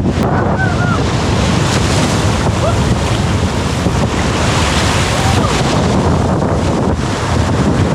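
Heavy rain pouring down together with breaking surf, with wind buffeting the microphone: a steady, loud wash of noise.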